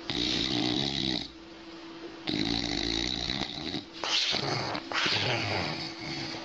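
A sleeping dog snoring: two long, pitched snores of more than a second each, then two shorter, breathier snores near the end.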